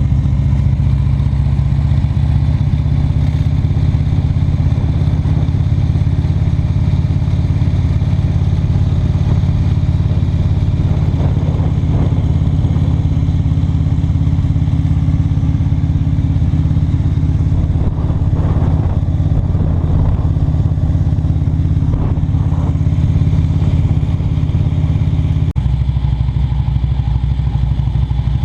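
Motorcycle engine running steadily under way at an even speed, a constant low drone. The drone dips briefly and shifts slightly in tone about three seconds before the end.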